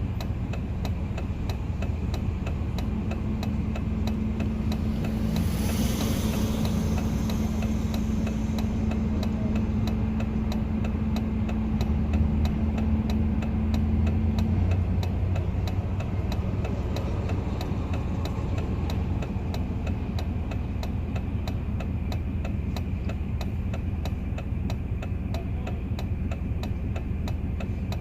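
Road noise inside a moving vehicle's cabin: steady engine and tyre rumble, with a steady hum for several seconds and a short rush of noise about five seconds in.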